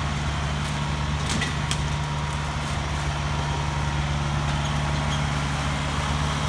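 Tractor engine running steadily as the tractor mows grass: a continuous low drone, with a few faint ticks in the first couple of seconds.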